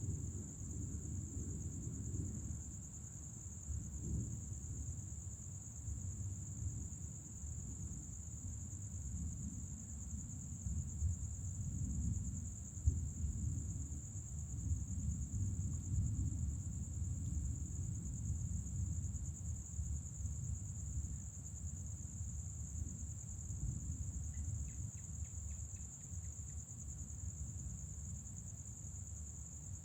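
Night insects trilling in one steady, high-pitched tone, over a low, uneven rumble.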